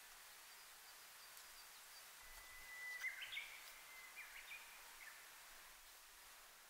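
Faint Japanese bush warbler (uguisu) singing its 'hoo-hokekyo' song: one long held whistle about two seconds in, then a quick rising flourish, followed by a few shorter whistled notes.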